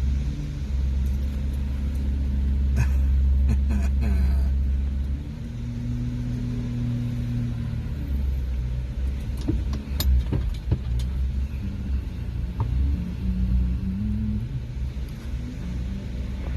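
Vehicle engine running with a deep, steady rumble, broken by a few sharp knocks and clunks about ten seconds in.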